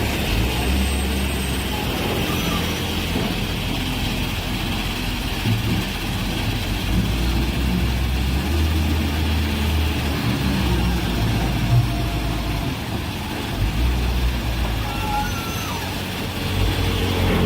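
Diesel engines of heavy earthmoving machinery running steadily. The deep rumble swells and eases several times as the engines work under changing load.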